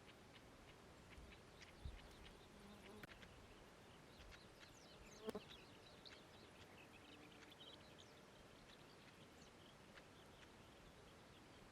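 Quiet meadow ambience: a fly or bee buzzing faintly past now and then, with scattered faint high chirps and ticks from small creatures. Two soft thumps stand out, about two and five seconds in.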